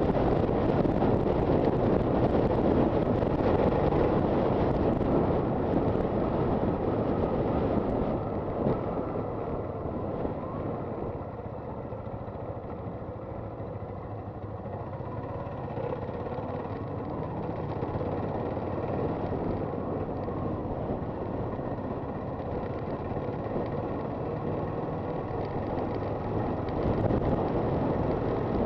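Honda FT400 single-cylinder motorcycle under way, its engine running under road and wind noise on the microphone. The noise eases off after about eight seconds, then builds back up toward the end.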